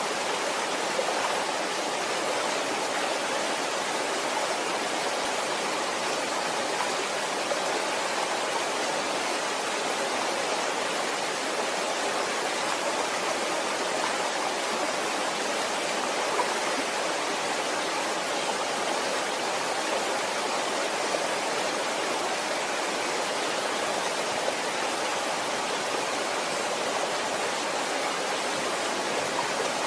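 Waterfall: water falling and rushing as a steady, even hiss without pauses.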